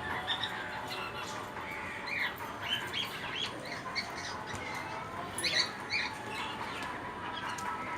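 Birds calling: many short, high, arched calls, one after another and sometimes overlapping, over a faint steady hum.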